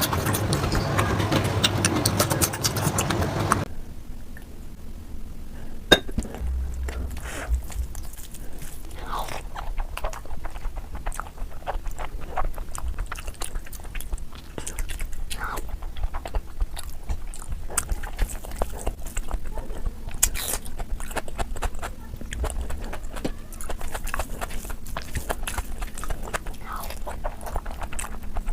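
Close-miked eating of mutton fat curry with rice: chewing, wet mouth smacks and small clicks, scattered and irregular. For the first few seconds a louder, denser sound covers it, then cuts off suddenly.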